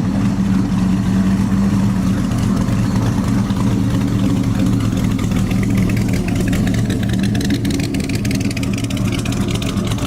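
A car engine idling steadily and close by, with a fast, even pulse coming through more plainly in the second half.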